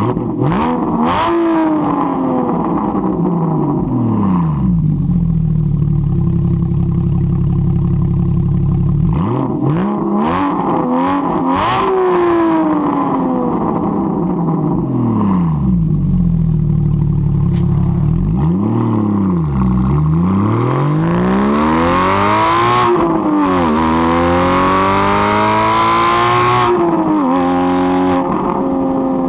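Porsche Cayman GT4 flat-six through a Fabspeed race exhaust, revving up and falling back several times between stretches near idle, with a few sharp cracks. A longer run at higher revs comes near the end.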